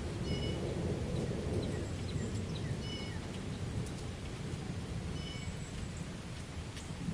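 Thunder rumbling low and steadily under rain. A few short high bird chirps come about every two to three seconds.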